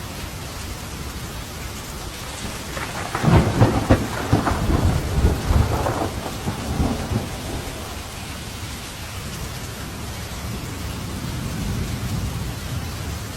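Steady rain with a crackling thunderclap about three seconds in that rolls on for some four seconds, then a softer low rumble of thunder near the end.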